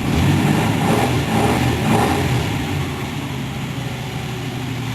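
2005 Nissan Pathfinder's 4.0-litre V6 starting in extreme cold, surging to a high, rough-running fast idle that eases back a little over the last couple of seconds.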